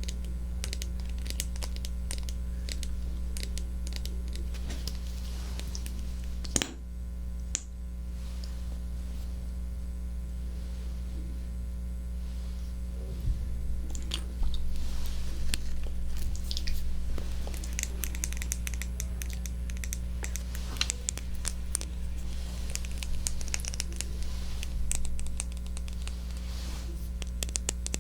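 Close-miked ASMR triggers on a 3Dio binaural microphone: soft scratching, crinkling and small clicks, busier in the second half, with one sharp click about six and a half seconds in, over a steady low electrical hum.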